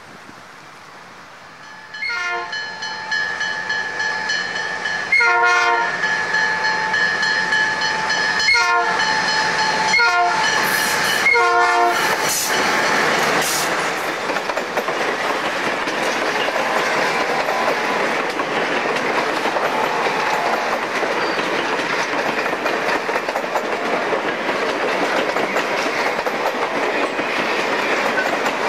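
An ALCO FPA-4 diesel locomotive's horn sounds a series of blasts, long ones followed by shorter ones, as the train approaches. Then the locomotive and its passenger cars roll past close by, wheels clattering on the rails.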